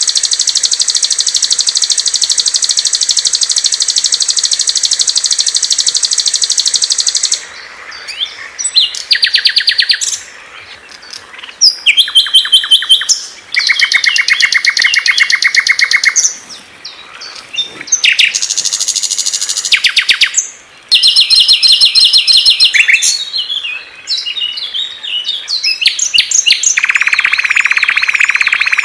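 Small songbirds singing loud, very rapid, high-pitched trills. For the first seven seconds one trill runs unbroken. Then short bursts of different trills and chirps follow one another with abrupt changes every couple of seconds, and near the end a lower, buzzier trill sets in.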